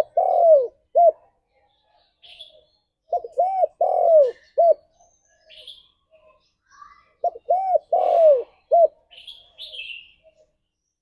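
Spotted dove cooing: three phrases about four seconds apart. Each phrase is a short note, an arched note, a long falling coo and a short closing note. Faint high chirps of other birds sound between the phrases.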